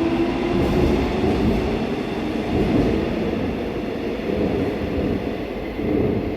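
Seoul Subway Line 4 electric train moving along the platform, a loud, steady running noise of wheels and traction motors.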